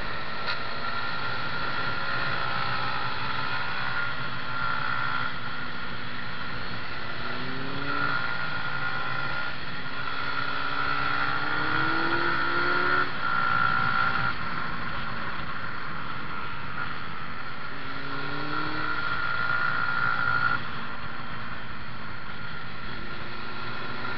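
Yamaha MT-125's single-cylinder four-stroke engine, heard from the bike itself at track speed, rising in revs in three sweeps through the gears over a steady rush of wind. The last pull ends abruptly about twenty seconds in as the throttle closes.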